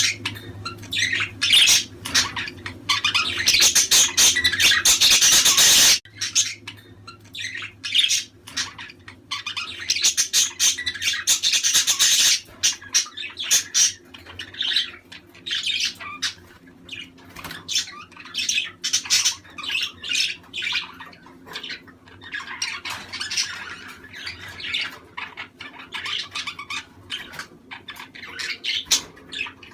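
A flock of budgerigars chattering, with many quick overlapping chirps and squawks. A low background hum cuts out abruptly about six seconds in.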